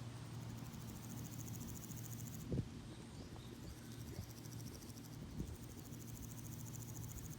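Insects chirping in a fast, high-pitched pulsing trill that breaks off about a third of the way through and starts again later, over a steady low hum. A short thump sounds just before the trill stops.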